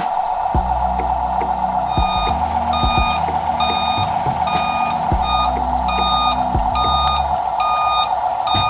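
Repeated electronic beeping, about one beep every 0.7 seconds, starting about two seconds in, over a steady hiss and low humming tones.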